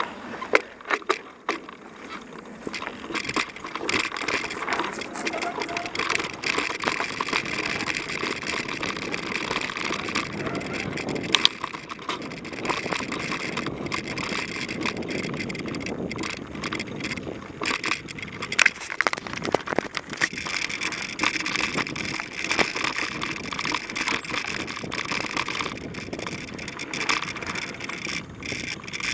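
Mountain bike ridden along a dirt trail: tyres rolling over the ground, with frequent rattles, clicks and knocks from the bike.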